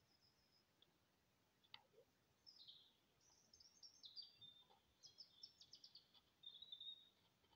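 Faint songbird calls in woodland: scattered high chirps, a rapid trill about five seconds in, and a short steady whistle near the end.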